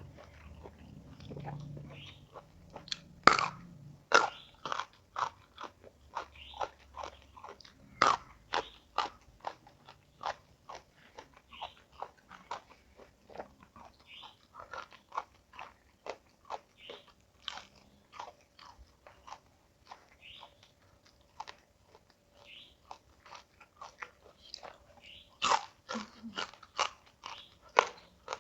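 Close-up chewing of crisp food: a steady run of wet crunches about two a second, with a few louder bites, three of them standing out (near three seconds in, near eight, and a few seconds before the end).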